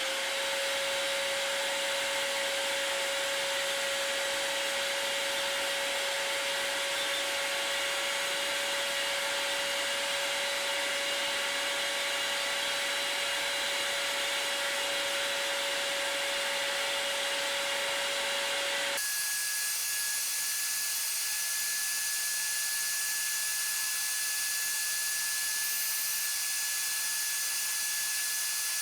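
Vacuum cleaner running steadily, its motor having just spun up, sucking up soot and ash scraped from a pellet stove's combustion chamber. About two-thirds of the way through, the sound changes abruptly to a higher, thinner hiss as the lower hum drops away.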